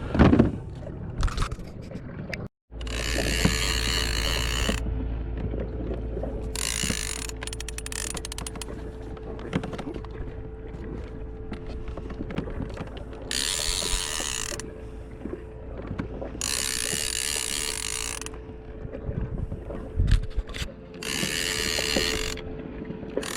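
Fishing reel being cranked in five bursts of about a second and a half each, with a run of rapid clicks around eight seconds in.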